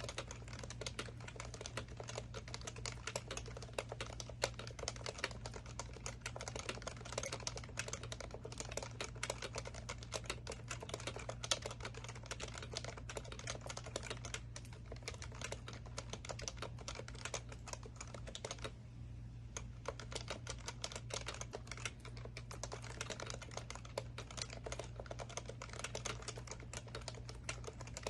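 Continuous fast typing on an HHKB Professional Classic keyboard with Topre capacitive switches: a dense run of tactile keystrokes, with a short pause about two-thirds of the way through.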